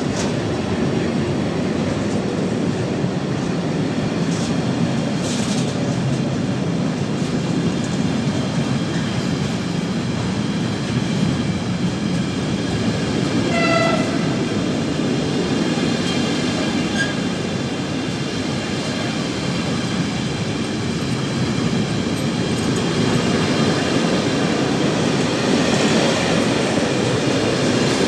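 Train running past on the rails: a steady rumble of wheels and wagons that grows a little louder near the end, with a brief pitched tone about 14 seconds in.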